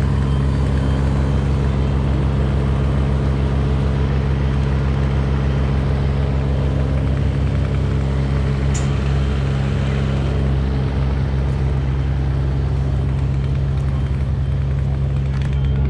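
Truck engine running steadily, with a deep, even hum that holds unchanged throughout.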